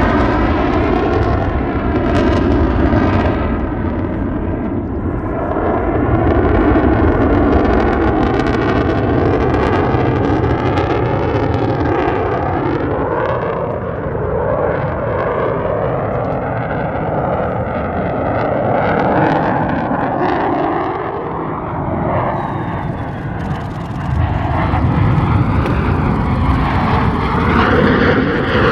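Lockheed Martin F-35A Lightning II's single F135 turbofan engine roaring as the jet flies its display, loud and continuous with a swirling, phasing character. It fades somewhat in the middle and swells again near the end.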